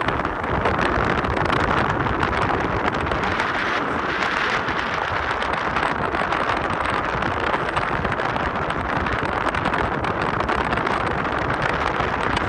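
Wind buffeting the microphone: a loud, steady rushing noise with a low rumble underneath.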